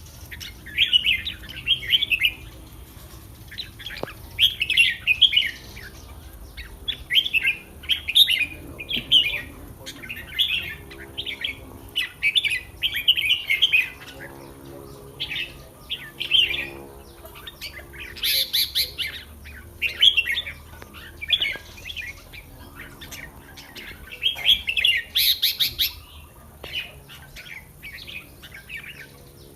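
Red-whiskered bulbul singing: short, bubbling phrases repeated over and over, one every second or two, with a couple of sharper, louder calls in the second half.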